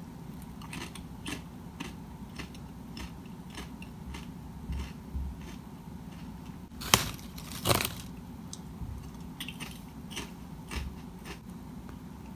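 A person chewing a crisp potato chip close to the microphone: irregular short crunches, two of them louder about seven seconds in, over a faint steady low hum.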